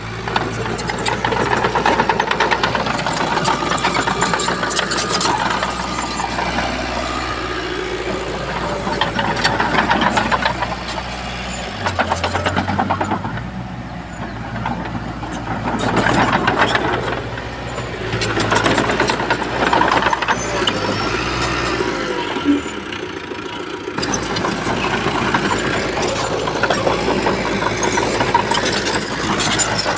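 Heavy diesel engines of earthmoving machinery, a bulldozer working sand, running and swelling and easing with load. The sound changes abruptly twice.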